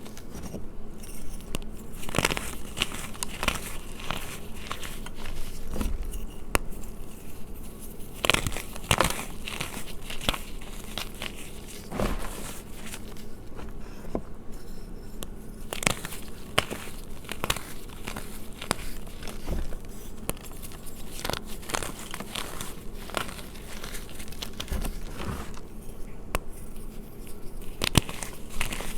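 Gym chalk being crushed, with a dense, continuous run of sharp, crisp crunches and crackles.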